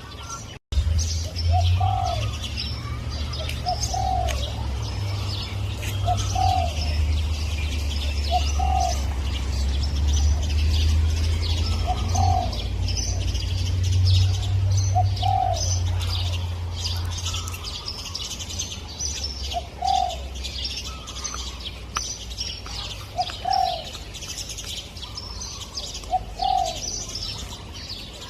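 Spotted dove cooing, a short low coo repeated about every two seconds, over the busy chirping of small birds. A low steady hum runs underneath and stops about two-thirds of the way through.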